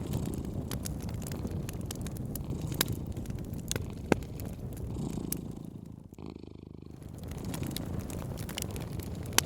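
A cat purring close up, a steady low pulsing rumble that fades briefly about six seconds in. Over it come the scattered snaps and crackles of a wood fire, with one sharper pop about four seconds in.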